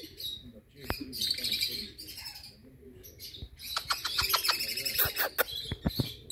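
A crowd of small aviary birds chirping and chattering, with many short sharp chirps and clicks overlapping.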